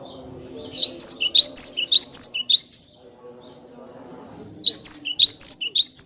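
Cinereous tit (gelatik batu) singing clear, quickly repeated two-note phrases in two bouts: the first about a second in, the second near the end.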